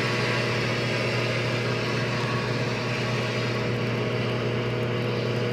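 Microwave oven running with a batch of grapes inside, a steady electrical hum at an even level.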